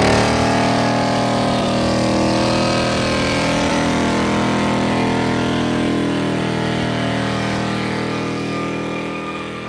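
A truck engine held at steady revs just after a rev, its sound easing off gradually near the end.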